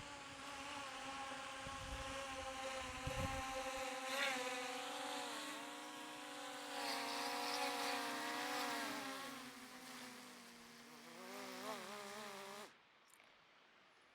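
DJI Mini 3 Pro drone's propellers whining with several steady tones while it carries a taped-on Insta360 X4 camera; the pitch wavers and falls in the later seconds, then the sound cuts off suddenly near the end. Wind rumbles on the microphone for the first few seconds.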